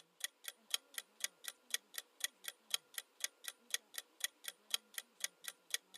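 Quiz countdown timer sound effect: an even clock-like ticking, about four ticks a second.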